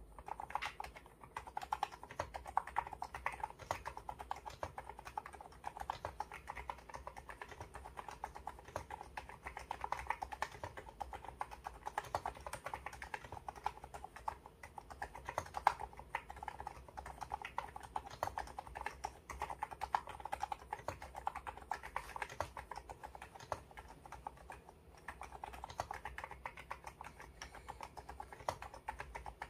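Continuous typing on an electrocapacitive (non-contact) mechanical-style keyboard, a fast run of soft key strokes that starts at once, with a short pause a few seconds before the end.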